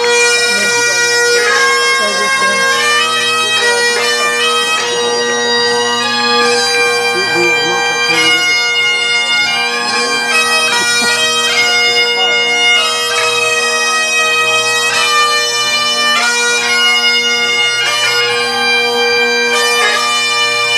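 Great Highland bagpipe playing a slow melody over its steady, unbroken drones.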